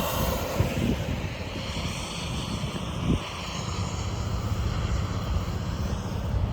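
Low, steady roar of a strong tornado at close range.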